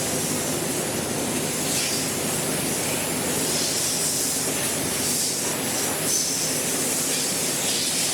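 High-pressure car wash water spray hissing steadily over a low rumble, the hiss surging louder every second or two.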